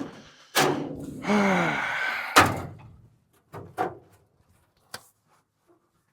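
A vehicle door is worked and slammed shut: a rustling, creaking stretch with a short sound falling in pitch, then one loud slam about two and a half seconds in, followed by a few light knocks.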